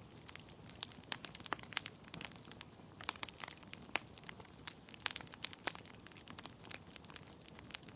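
Wood fire crackling in a fireplace: irregular sharp pops and snaps from burning logs over a low steady hiss.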